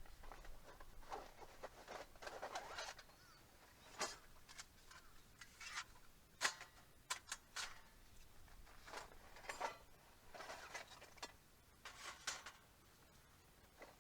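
Faint, scattered rustling and light knocks of handling, with a few sharp clicks, about four seconds in and near six and a half seconds.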